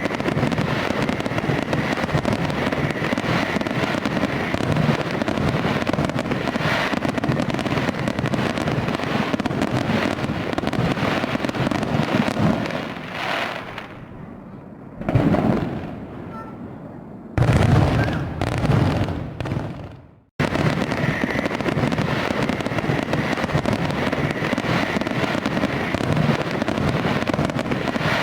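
Fireworks display: a dense, continuous crackle of bursts. It thins out around fourteen seconds in, comes back with heavy booms about seventeen seconds in, then cuts off abruptly and starts again straight away.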